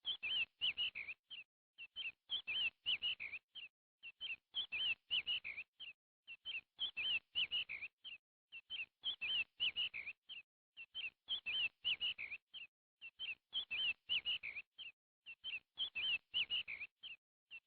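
Bird chirping in short bursts of quick chirps, about one burst every two seconds, with silence between. The bursts repeat identically, like a looped birdsong recording.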